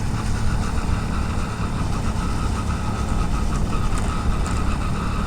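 Motorcycle engine running steadily while riding, with steady road and wind noise, heard through a helmet-mounted action camera in a waterproof case.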